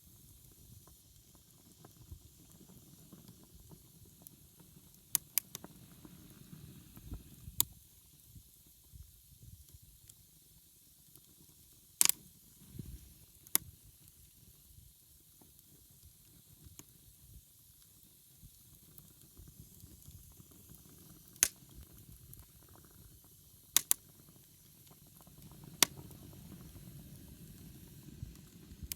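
Wood fire burning with a low rumble of flames, broken by about eight sharp crackling pops of the burning wood, two of them close together around a third of the way in.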